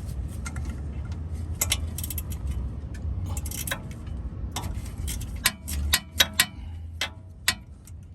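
Metal hand tools clicking and clinking irregularly as a 5 mm hex bit is handled and fitted to a ratchet, with a few sharper metallic knocks a little past the middle, over a steady low hum.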